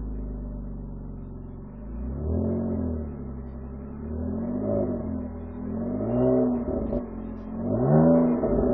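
BMW Z4 2.5i's straight-six running through an Eisenmann Race rear silencer, its intermediate silencer removed. It idles steadily, then is blipped four times, each rev rising and falling quickly. The last blip, near the end, is the highest and loudest.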